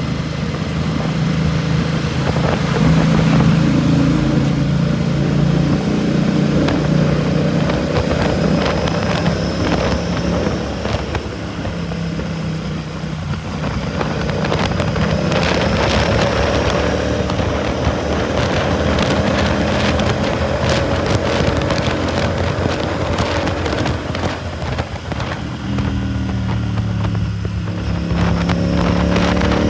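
Royal Enfield Continental GT 650's 648 cc parallel-twin engine running through a Red Rooster aftermarket exhaust while riding. The engine note rises and falls as the throttle is opened and closed, easing off briefly about twelve seconds in and again near twenty-five seconds.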